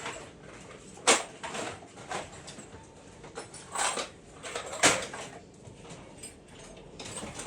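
Irregular knocks and clanks of a thick steel patch plate being handled and knocked into place on a Jeep's sheet-metal floor. The sharpest knocks come about a second in and near five seconds in.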